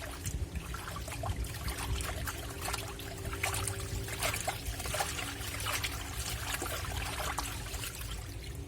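Water trickling and splashing in a Black & Decker washing machine, with irregular splashes over a faint steady hum.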